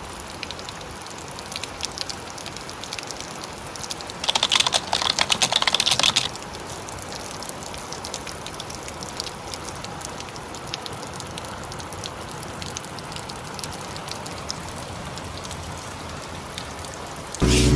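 Heavy rain pattering, a dense haze of fine drops. A louder, sharper spell of pattering lasts about two seconds, starting about four seconds in.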